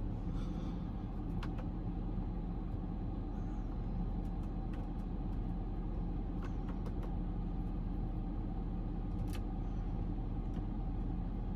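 An engine idling steadily, an even low hum, with a few faint clicks over it.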